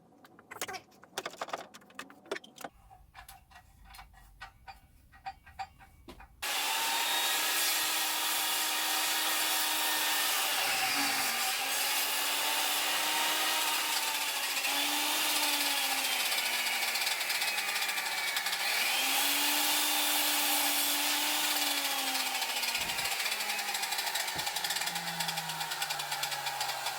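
A few light knocks and clicks, then about six seconds in a circular saw starts abruptly and runs loudly. Its motor pitch sags and recovers several times as it cuts through wood, and falls steadily near the end.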